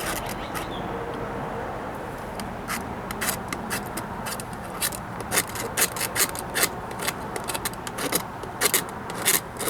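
Scraping mineral buildup off a Thetford RV toilet part, a run of irregular, sharp scratchy strokes that grows busier after the first few seconds.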